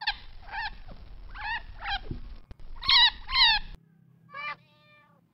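A chinchilla's short, high squeaking calls, in three pairs. About four seconds in, a cat gives one short meow.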